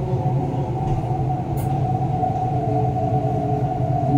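East Rail Line electric train running, heard from inside the carriage: a steady hum with a steady whine over it. A brief hiss comes about a second and a half in.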